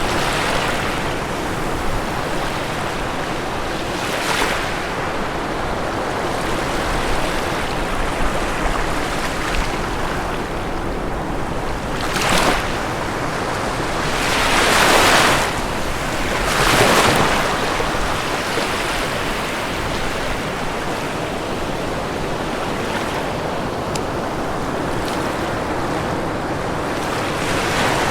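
Ocean waves breaking on a shore in a continuous wash of surf. Louder surges come about 12, 15 and 17 seconds in as bigger waves break.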